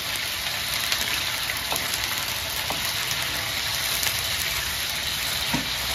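Chicken pieces frying in oil in a wok, a steady sizzle, with a few light scrapes and taps of the metal spatula as they are stirred.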